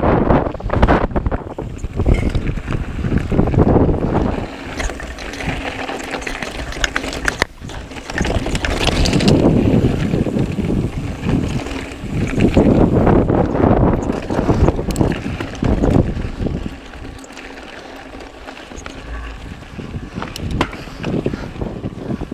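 Wind buffeting the microphone of a camera riding on a mountain bike, swelling and easing, with clicks and knocks from the bike rattling over rough trail.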